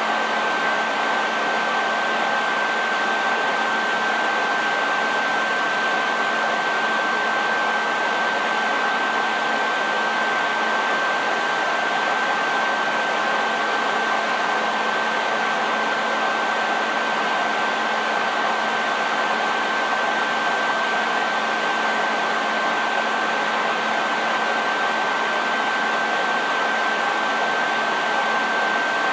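Hair dryer running continuously, a steady airy rush with a constant high whine from its motor and fan, unchanging throughout.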